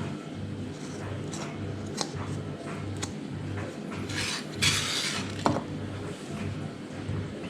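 Light clicks and taps of a hard plastic 3D-printed part being handled, with a short rustle about four seconds in, over a low steady hum.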